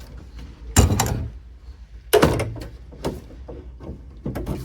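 Handling noise: two loud clattering knocks, each trailing off briefly, about a second and two seconds in, followed by several lighter clicks and taps.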